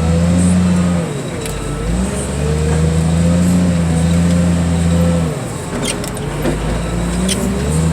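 Car crusher's engine running hard, its note sagging and recovering several times as the hydraulics take and release the load, with a few sharp metal cracks.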